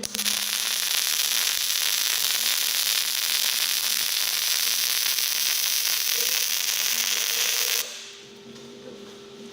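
MIG welding arc on carbon steel laying a flat fillet pass: a steady crackling hiss that cuts off suddenly about eight seconds in. A faint steady hum follows.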